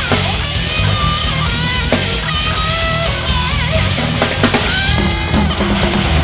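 Heavy metal band playing live: loud distorted electric guitars over a dense, pounding low end, with guitar lines bending in pitch above it.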